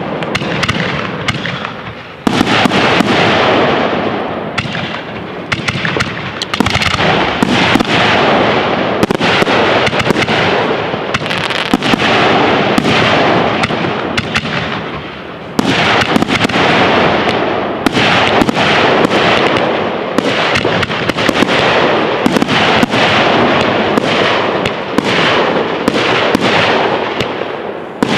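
Fireworks display at full intensity: a dense barrage of shell bursts and crackling, near-continuous. A new volley starts sharply about two seconds in and another about halfway through.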